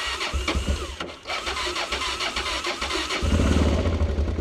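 Honda Transalp XL600V's V-twin engine being cold-started on the electric starter: it cranks for about three seconds, then catches and runs.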